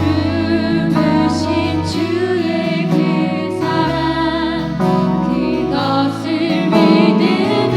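Congregational worship music: a praise team singing a Korean worship song with band accompaniment.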